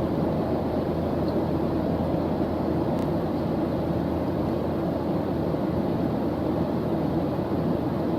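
Steady white-noise study track: an even, unbroken hiss that sits mostly low, like a deep rumble.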